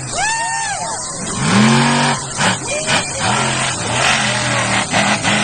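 Monster truck engine revving hard in repeated bursts, its pitch climbing and dropping with each blip, with a high whine rising and falling early on, over loud arena noise.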